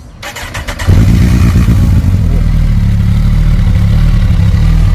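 Kawasaki ZZR1400's inline-four engine turned over briefly on the starter, catching within the first second, then idling loud and deep through an aftermarket slip-on muffler.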